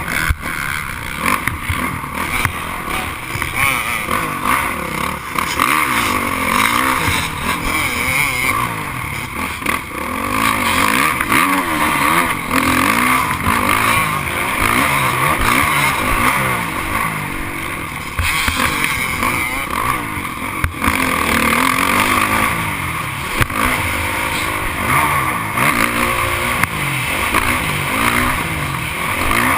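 Several motocross bikes racing, their engines revving up and falling off again one over another.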